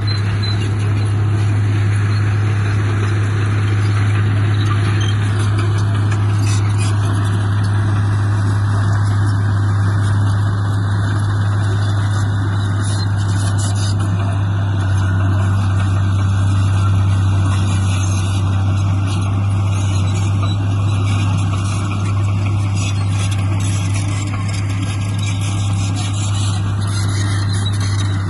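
The diesel engine of heavy earthmoving machinery running steadily, with a strong deep drone.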